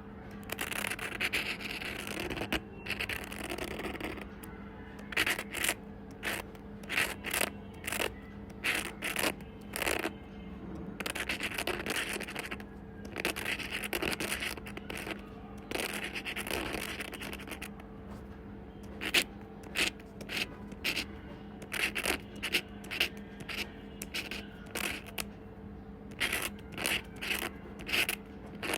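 Pen or pencil drawing on paper: long scratchy strokes lasting a second or two, mixed with many quick short strokes, more of them after halfway through. A steady low hum runs underneath.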